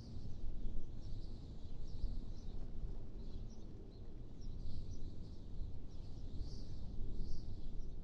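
Wind blowing in a low, gusting rumble that swells and eases, with birds chirping in short high notes throughout.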